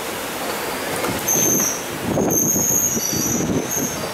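Konkan Railway passenger train rolling slowly into a station, its wheels rumbling on the rails. A high squeal from the braking wheels starts about a second in and comes and goes as the train slows.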